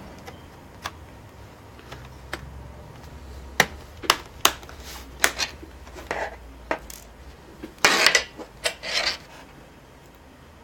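Small hard clicks and knocks of laptop parts, screws and a screwdriver being handled during reassembly, scattered and irregular, with a short cluster of louder clatter about eight seconds in.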